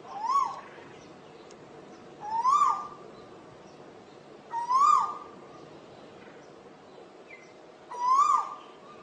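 Asian koel calling: four loud, clear whistled notes, each sliding up then dropping, repeated every two to three seconds.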